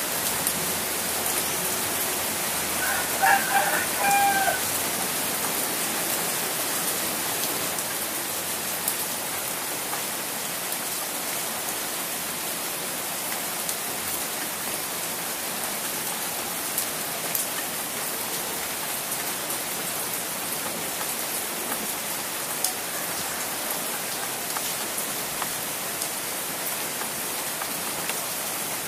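Steady rain falling, with scattered sharp drop ticks. About three seconds in, a rooster crows once.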